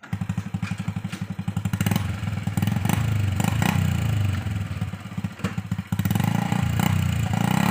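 Honda Revo single-cylinder motorcycle engine in a homemade car, running. Its exhaust pulses are distinct for the first couple of seconds before it runs steadier, with a few sharp clattering knocks from the body.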